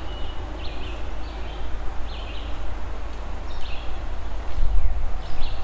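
A bird calling over and over, short high notes repeating about once a second, over a low rumble of wind on the microphone that grows stronger near the end.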